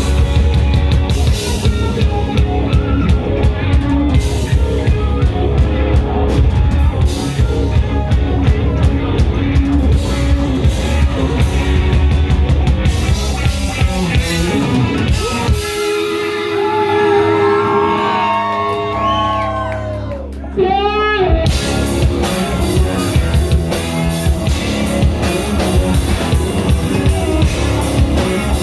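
Live rock band playing with drums, electric guitar and bass. About fifteen seconds in the drums drop away, leaving held notes and sliding, bending pitches for several seconds. The full band then crashes back in together.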